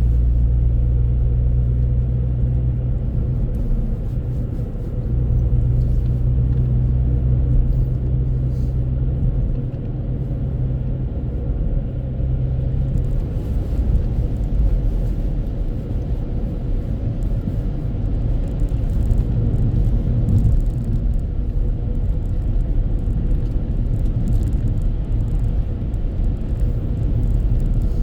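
Steady low road and engine rumble of a moving car, heard from inside the cabin. The deep humming tones give way to a more even rumble about halfway through.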